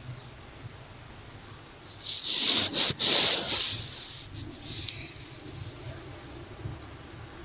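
Makeup brush brushing and scratching over an earphone microphone in a few swishing strokes, loudest about two to three and a half seconds in and again around five seconds.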